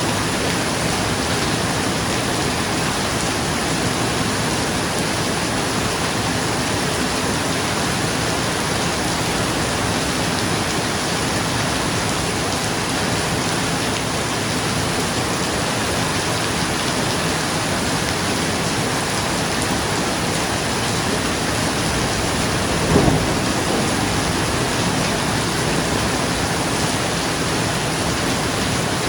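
Steady rain falling on a roof, an even hiss. About three-quarters of the way through, a brief low rumble of thunder.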